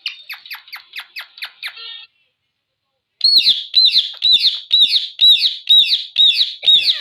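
Ringneck parrot calling: a quick run of about nine short falling chirps, then after a brief pause a steady string of loud, arching squawks, about three a second.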